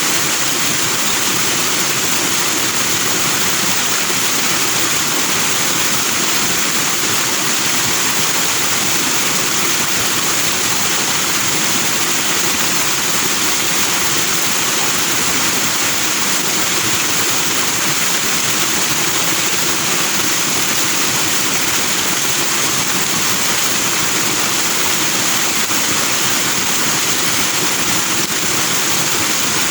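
Forest stream running over rocks with white foam: a steady, even rush of water.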